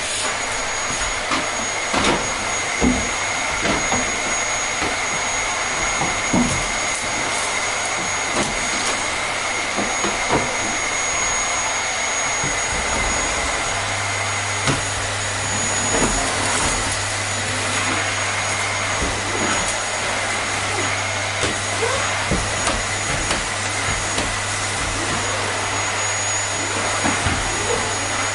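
Vacuum cleaner running steadily: a constant rushing hiss with a high, even whine. Small clicks and knocks are scattered throughout.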